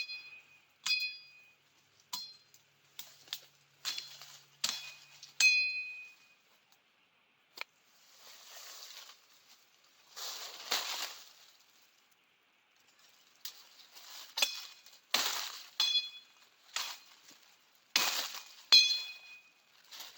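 Repeated sharp strikes of a metal blade chopping brush, many of them ringing briefly with a high clink, in uneven groups, with rustling of brush between them about halfway through.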